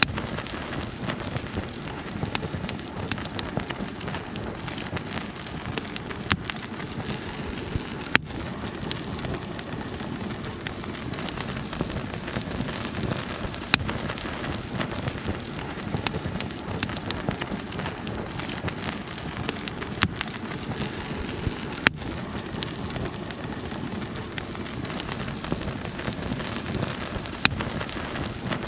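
A mountain stream running steadily, with crackles and sharp pops from a wood fire scattered throughout, a few of them louder.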